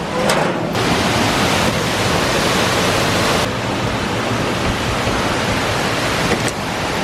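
Steady, loud rush of falling water from a large waterfall.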